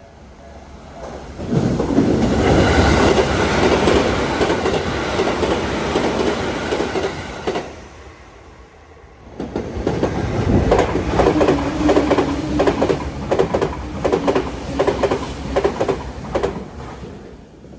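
Two Tokyu Meguro Line electric trains pass at high speed one after the other, each a rush of wheel and track noise that builds and fades. The second pass carries rapid clacking of wheels over rail joints and a steady hum.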